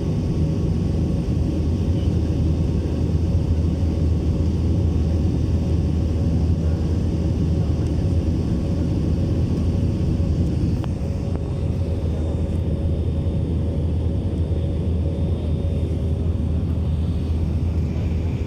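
Airplane engine noise: a steady low drone that holds the same level throughout, with a few faint steady tones above it.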